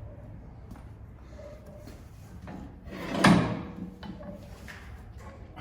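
A single loud bang about three seconds in, like a door or a heavy part being shut, over a steady low hum of shop noise.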